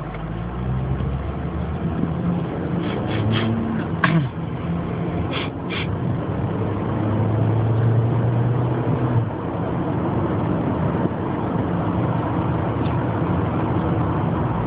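Car driving, with steady engine and road noise heard from inside the cabin and a few faint clicks a few seconds in.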